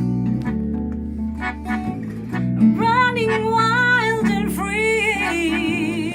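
A band playing live: strummed guitar chords, with a singer's voice coming in about three seconds in and holding wavering notes.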